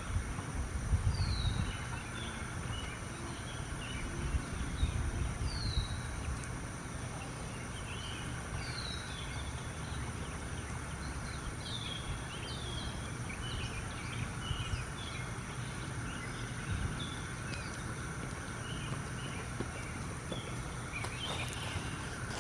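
Small birds chirping, with many short high calls and a few down-slurred whistles, over a steady low rumble.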